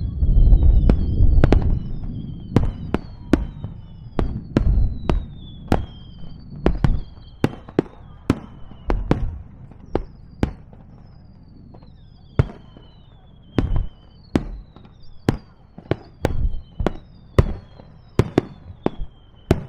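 Aerial fireworks going off in a rapid run of sharp bangs, one or two a second, with heavier low booms in the first couple of seconds. Several high whistles, each falling in pitch, overlap throughout.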